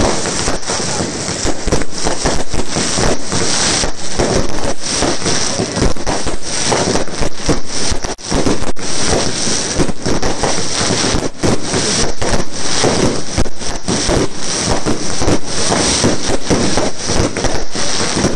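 A fireworks display going off: a dense, continuous crackle of many sharp bangs and reports from bursting aerial shells, with a brief lull about eight seconds in.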